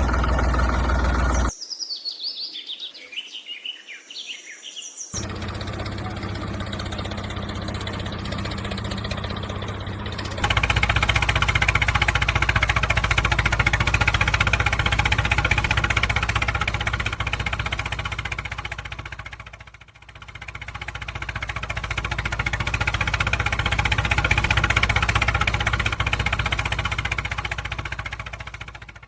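Birds chirp for a few seconds near the start, between stretches of a steady, low engine hum like a tractor engine running. The engine sound comes back louder about ten seconds in and runs on steadily, dipping once in the middle and fading out at the end.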